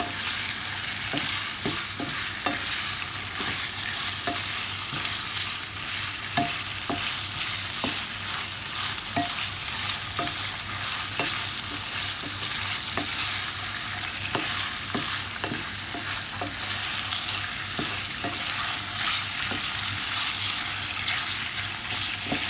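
Strips of chicken and sliced onion sizzling as they fry in a pan, with a utensil stirring them and knocking lightly against the pan at irregular intervals.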